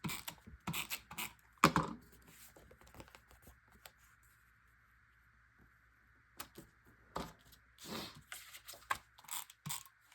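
Paper and cardstock being handled and trimmed: sharp clicks, taps and paper rustles in two clusters, with a quiet spell of a few seconds in between.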